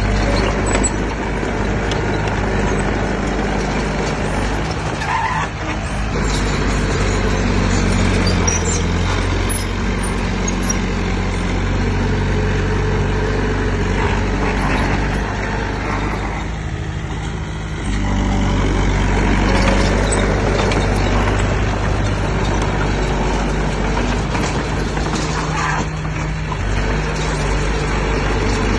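Diesel engine of heavy earthmoving machinery running under load, its pitch shifting as it works, easing off briefly about seventeen seconds in and then picking up again, with a few faint clanks.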